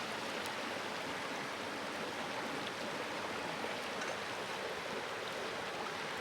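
A clear, shallow river babbling steadily over stones.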